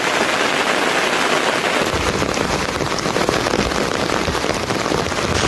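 Heavy rain falling steadily, a dense hiss of drops on the ground and surfaces. About two seconds in, a low rumble joins underneath.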